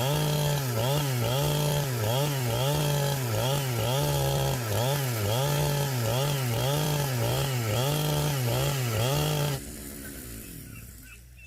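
Chainsaw running and cutting wood, its engine pitch dipping under load and recovering about every half second. It stops abruptly near the end and fades out.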